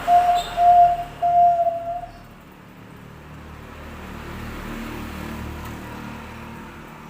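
Zebra dove (perkutut) cooing: a phrase of clear notes at one pitch that ends about two seconds in, the last notes drawn out longer. After that, only a faint low background hum.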